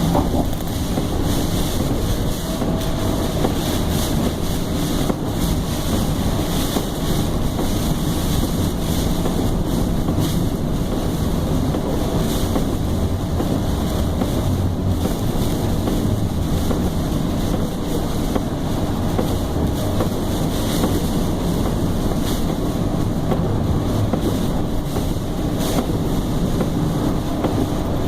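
Strong tropical-storm wind blowing over the microphone: a loud, steady low rumble and rush with no letup.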